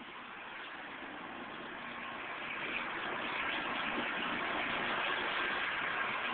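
Motor vehicle running, its sound growing steadily louder.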